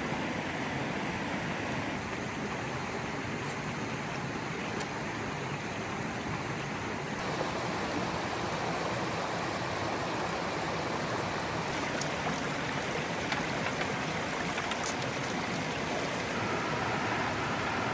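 Steady rush of flowing water, its tone shifting slightly about seven seconds in.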